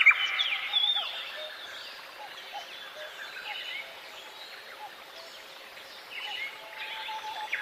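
Several birds singing and chirping together, a mix of short high chirps, sliding whistles and short repeated lower notes. The singing is busiest about the first second, thins out in the middle and picks up again near the end.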